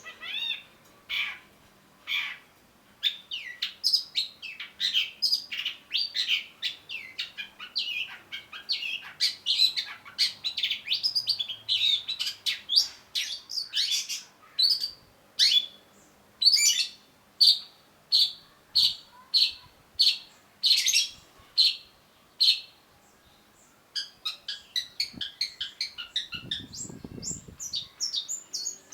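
Long-tailed shrike singing a fast, varied song of sharp repeated notes and harsh chatter, with a short pause a little after three-quarters of the way through, followed by rapid twittering.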